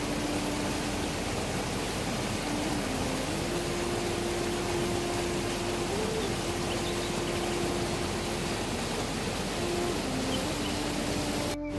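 Steady hiss of rainfall, with a faint humming tone that holds and shifts up and down in pitch behind it. The sound drops out briefly near the end.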